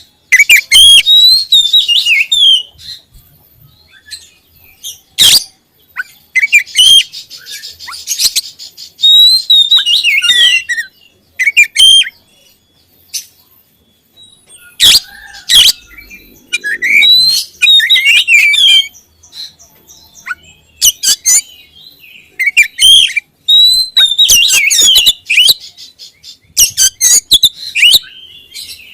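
Oriental magpie-robin (kacer) singing loud, varied whistled phrases in bursts with short pauses between them, with a few sharp notes among them.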